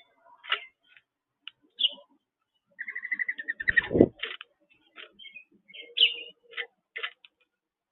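Small birds chirping at irregular intervals, with a quick run of rapid repeated notes about three seconds in. A brief loud low thump comes about four seconds in.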